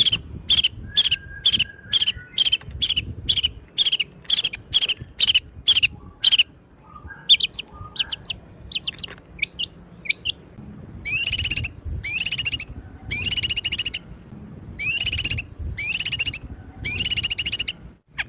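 A songbird singing loudly and close: about four short, sharp repeated notes a second for the first six seconds, a few softer chirps, then six longer rapid trills, each starting with an upward sweep.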